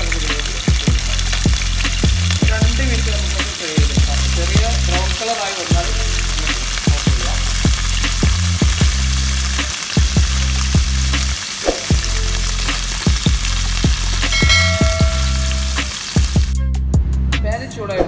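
Cubes of halloumi cheese sizzling in hot oil in a frying pan, a steady dense hiss that cuts off near the end, over background music with a steady beat.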